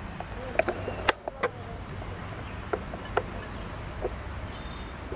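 MEMU train rolling slowly in: a low steady rumble with a few sharp clicks, some in pairs, as its wheels cross rail joints.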